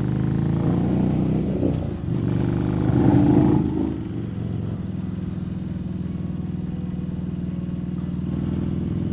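Harley-Davidson Street Rod 750's liquid-cooled V-twin pulling away, rising in pitch with a gear change about two seconds in and a louder surge about three seconds in, then running steadily at cruising speed.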